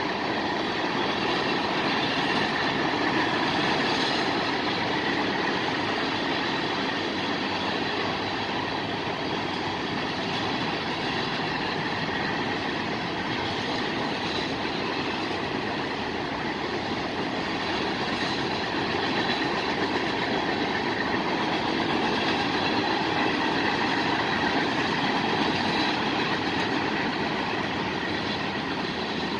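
Freight cars of a mixed freight train rolling past, a steady even noise of steel wheels on rail that carries on without a break.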